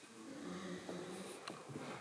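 A person's faint breathing with a low voiced sound lasting about a second, then a single light click about one and a half seconds in.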